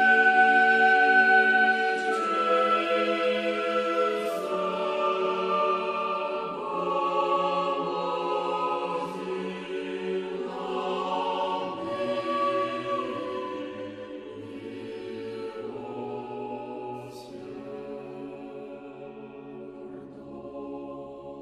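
Choir singing slow, held chords in the manner of church chant, growing quieter over the second half.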